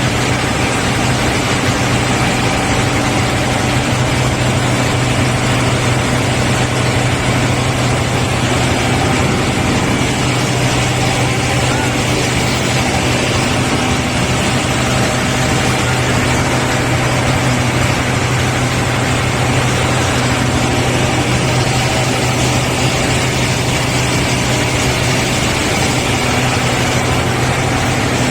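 A heavy engine running steadily: a constant low drone with a hiss above it, unchanging in level and pitch.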